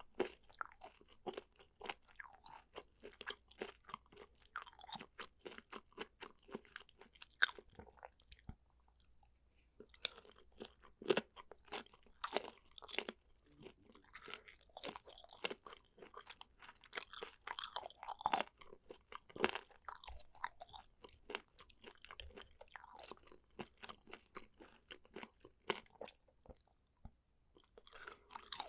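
A person chewing and biting boneless chicken feet and pork skin: dense, irregular crunching and sticky chewing clicks, with a couple of brief pauses.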